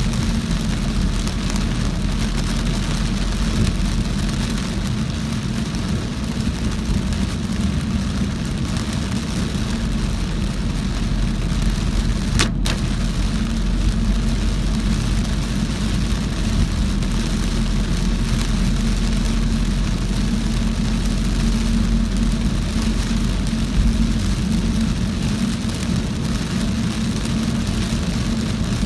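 Heavy rain on a moving car, with a steady low engine and road rumble beneath the hiss of rain and wet tyres. The sound drops out for a split second about twelve seconds in.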